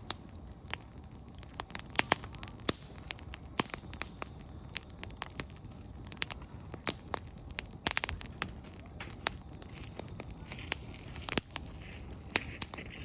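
Wood campfire crackling: firewood popping in sharp, irregular snaps, several close together at times, over a low steady noise.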